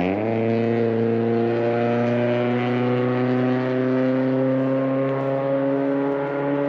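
A loud car engine on the road below. Its pitch jumps up at the start, then climbs slowly and steadily as it pulls along.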